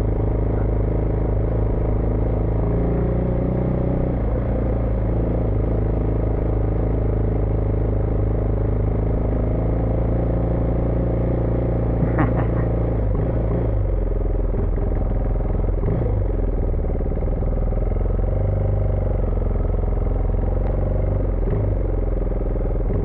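Husqvarna Vitpilen 401's single-cylinder engine running on the road, its note holding steady for the first half, then falling and rising again with throttle changes in the second half.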